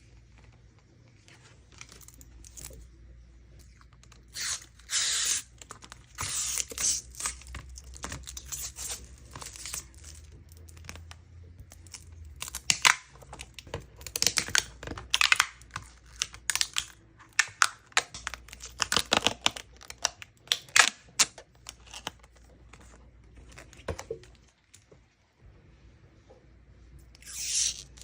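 Packaging being torn open and crinkled by hand: irregular rips and rustles with small sharp clicks, coming in bursts with short pauses, and two louder rips near the end.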